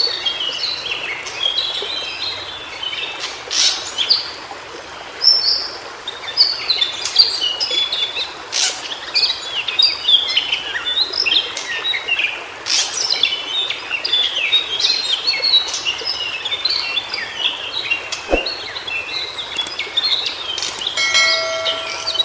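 White-browed shortwing singing: a continuous rapid, jumbled run of short high chirping notes over a steady background hiss.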